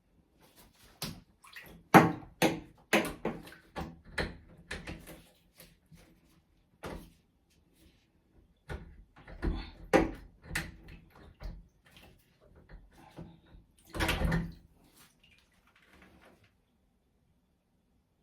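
Knocks and wet thumps at a clogged bathtub drain as it is worked on by hand. They come about two a second for a few seconds, start again after a pause, and end with one longer, heavier thump.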